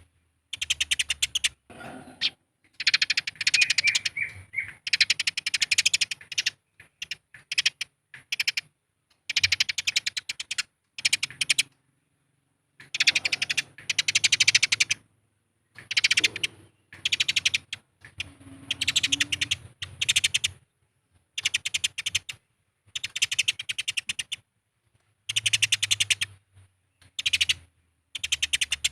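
Eurasian tree sparrows fighting, giving rapid, harsh chattering calls in repeated bursts of a second or two with short silent gaps between them.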